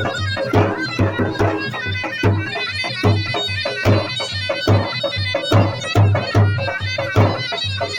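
Traditional folk music: a loud reed wind instrument plays a melody over a drone, backed by deep drum beats in a steady rhythm.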